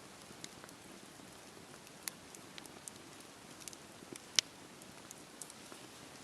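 Campfire burning in steady rain: an even hiss of rainfall with scattered sharp pops and ticks, one louder crack a little past four seconds in.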